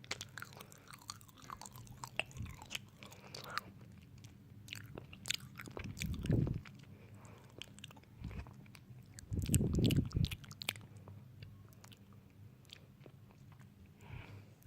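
Close-up crisp biting and crunchy chewing, a steady run of small crackles, with two dull low thumps about six and ten seconds in.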